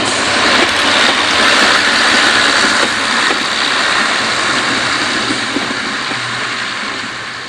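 Train engine running as a train passes on a model railway, with sound effects added for realism; it is loudest about two seconds in and then fades steadily.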